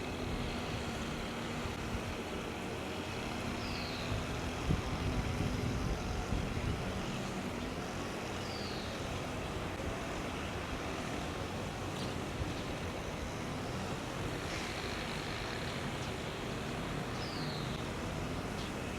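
Steady background of distant road traffic, with a low hum during the first few seconds. Over it a bird gives a short, falling call four times, a few seconds apart.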